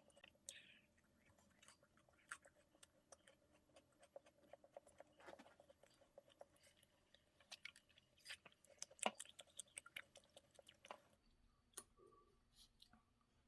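Close-up chewing of macarons: soft crunches and wet mouth clicks, irregular throughout, with the sharpest crunch about nine seconds in. About eleven seconds in, a steady background hum stops and only a few scattered clicks follow.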